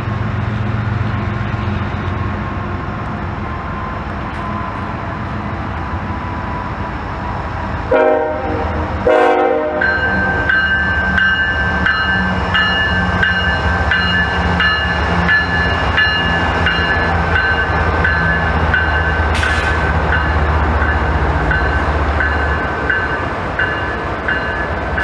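CSX freight diesel locomotives led by a GE ET44AH, their engines running with a steady low rumble. About eight seconds in the horn sounds two short blasts, the signal that the train is about to move forward, and after it a locomotive bell rings steadily with a regular beat.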